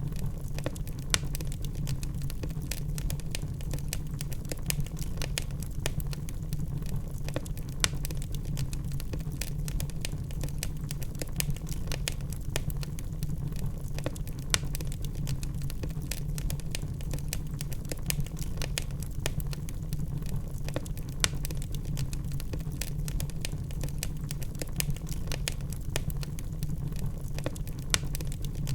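Logs burning in a fireplace: a steady low rumble of flame under dense, irregular crackles and pops, with a few sharper, louder pops scattered through.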